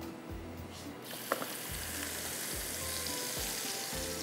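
Wet ground masala of tomato, onion and yogurt going into hot oil in a pan and sizzling, starting suddenly about a second in, with one sharp clink just after it starts.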